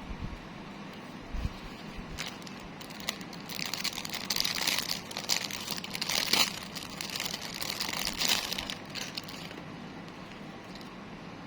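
Crinkling of plastic packaging being handled, in uneven crackly bursts with small clicks that start about two seconds in, grow louder in the middle and die away near the end.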